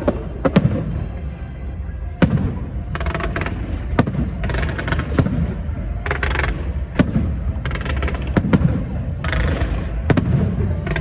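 Aerial fireworks going off: a sharp bang every second or two, with bursts of dense crackling between them.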